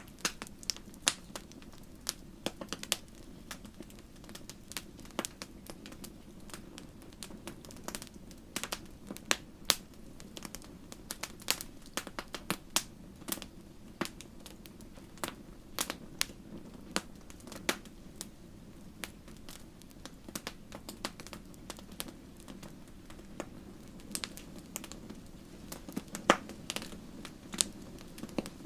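Wood fire crackling in a fireplace: irregular sharp pops and snaps, sometimes several a second, over a steady low rush of burning.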